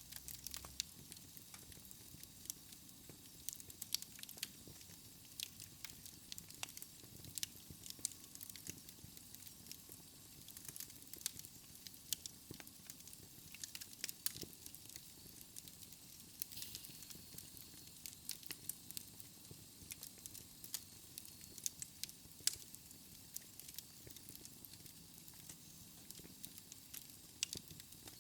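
Wood fire burning in a fireplace: a soft steady hiss with frequent small, irregular crackles and pops from the logs.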